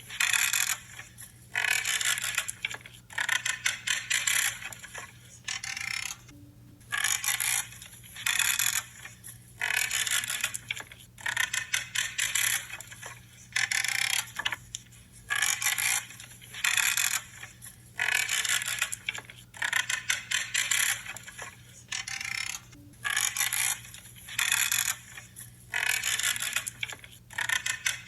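Pruning shears cutting through branches, a creaking, crunching snip about once a second, with short pauses between runs of cuts.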